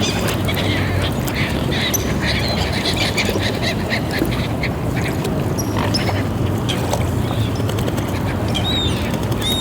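Ducks quacking repeatedly, with other waterfowl calls, over a steady low hum. A few short, high, bending bird calls come near the end.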